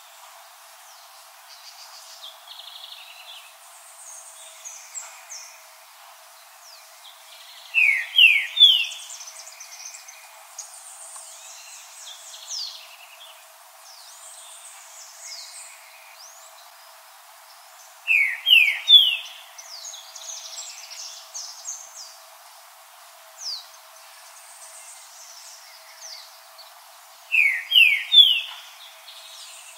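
Green-winged saltator singing three short loud phrases about ten seconds apart, each a quick run of three or four sliding whistled notes.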